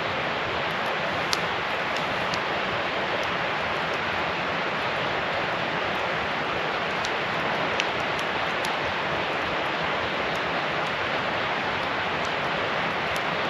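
Steady rushing noise with a few faint sharp clicks scattered through it.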